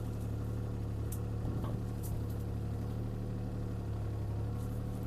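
CAT 303C CR mini excavator's diesel engine running steadily, with a few faint clicks.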